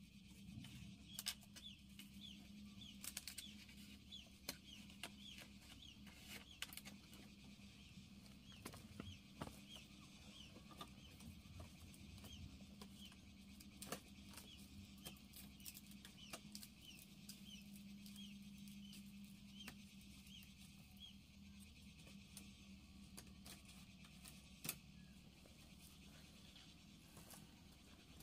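A bird's faint, short high chirps, repeated one or two a second and stopping after about twenty seconds, over a low steady hum. A few light knocks from bamboo being handled at the wall.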